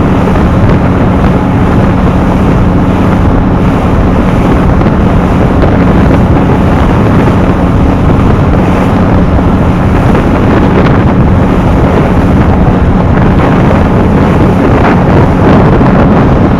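Small ferry boat's engine running steadily, with wind buffeting the microphone.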